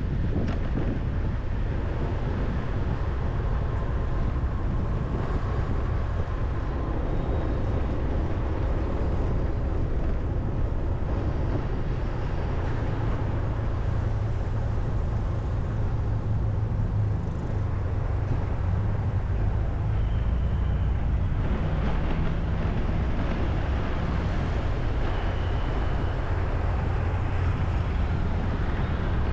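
Steady low rumble of vehicles, with no single event standing out.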